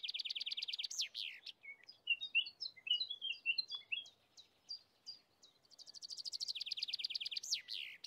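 A small songbird singing: a high, rapid trill that ends in a quick downward sweep, given twice, with a scatter of short chirping notes in between.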